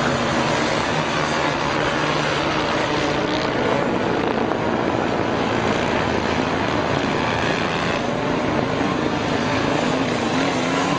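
Motorcycle engines running hard in a race, a steady roar with pitch that wavers up and down.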